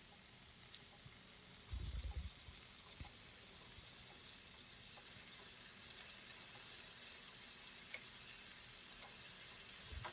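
Faint sizzle of the finished mushroom masala fry in the hot pan, with a brief low thud about two seconds in.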